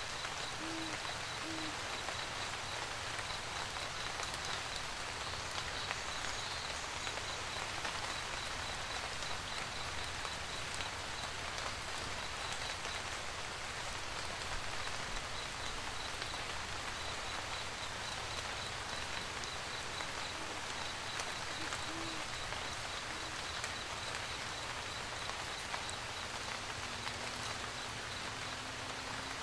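Steady rain falling, with an owl hooting a few short low hoots near the start and again about two-thirds of the way through. A high, even ticking chirp repeats about four times a second for most of the time.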